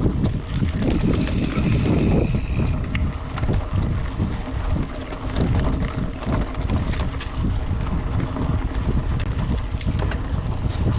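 Wind rumbling on an action-camera microphone while riding a Specialized Chisel mountain bike on a dirt trail, with frequent sharp rattles and clicks from the bike over the ground. A brief higher ringing tone comes in about a second in and stops near the three-second mark.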